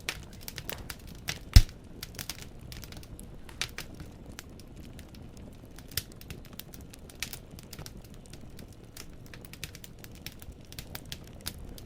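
Wood fire in a fireplace crackling, with irregular sharp snaps of burning logs and one loud pop about a second and a half in, over a low steady rumble of the flames.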